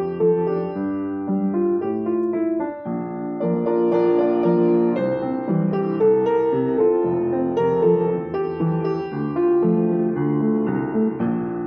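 Piano playing the tune of a song in chords and melody, with notes changing every half second or so.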